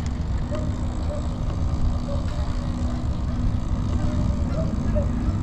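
Wind rumbling on the microphone while riding, with a steady low hum underneath.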